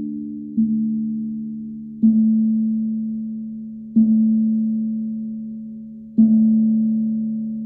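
Moyo tongue drum and Himalayan singing bowl being struck slowly, four times about two seconds apart, on the same low ringing note. Each stroke sounds out sharply and then fades slowly under the next.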